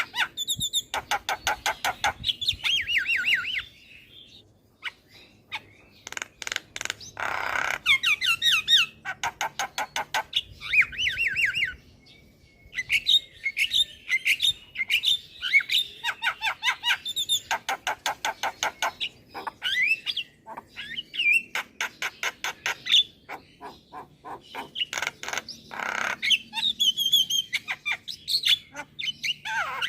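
Javan myna calling and singing: fast rattling runs of harsh clicks mixed with squawks and whistled notes, broken by brief pauses.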